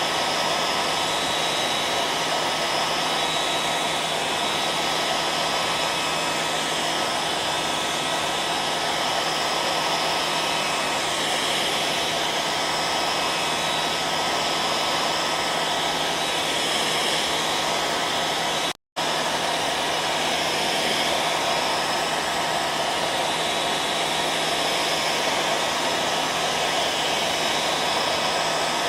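Hair dryer running steadily: a dense blowing noise with a constant motor whine. About two-thirds of the way through it drops out for a split second, then resumes unchanged.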